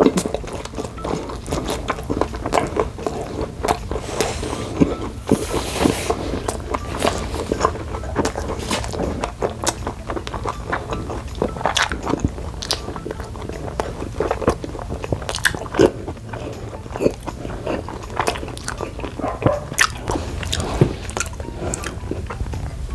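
Close-miked chewing and biting of food, with wet mouth smacks and clicks coming irregularly and densely throughout, and a brief hiss about five seconds in.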